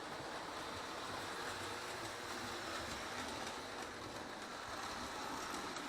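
Lionel O gauge toy trains running on tinplate track, a steady whir of motors and wheels with faint clicking.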